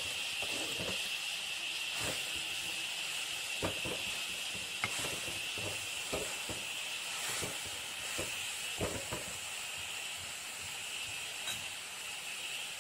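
Pumpkin leaves frying in coconut oil in a clay pot with a steady sizzling hiss. A metal spoon scrapes and knocks against the pot every second or so as the leaves are stirred.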